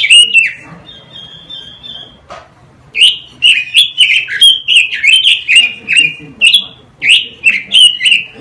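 Quế lâm songbird singing: a quick run of loud warbling notes at the start, a short pause with a few soft high whistles, then about five seconds of fast, varied, repeated phrases.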